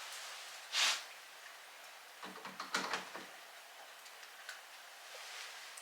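Light clicks and knocks of door lever-handle hardware being fitted together on the door, with a short scraping rustle about a second in and a quick cluster of small knocks a little over two seconds in.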